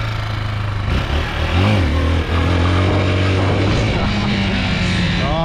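Dirt bike engine running, with a brief rev that rises and falls about a second and a half in, then settles to a steady lower drone.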